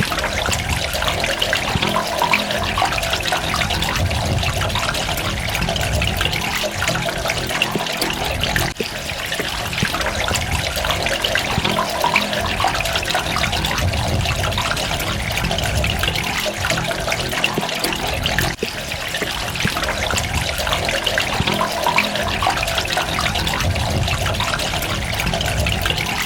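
Water running and splashing steadily in a dense trickle of drops, with a low rumble underneath that swells and eases every several seconds.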